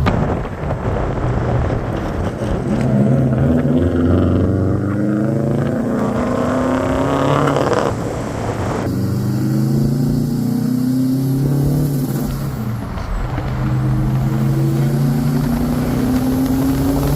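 Subaru 2-litre WRX flat-four engine pulling the car up through the gears: its pitch climbs steadily, drops sharply at a shift about eight seconds in, climbs again, dips at a second shift around twelve seconds, then climbs once more.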